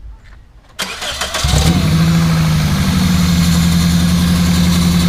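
2003 Toyota Corolla's engine cranked by the starter about a second in, catching half a second later, then running at a steady idle.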